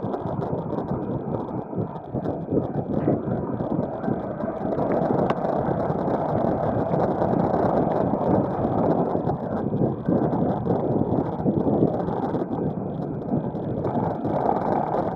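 Wind rushing over the microphone of a bicycle riding downhill, a loud, steady rumble with road and tyre noise underneath.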